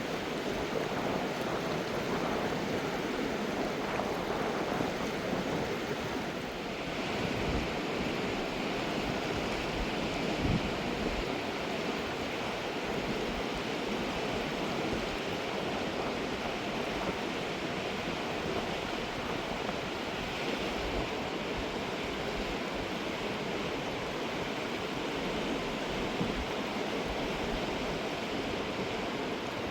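Fast mountain river rushing over rocks, a steady wash of water noise that turns a little hissier about seven seconds in.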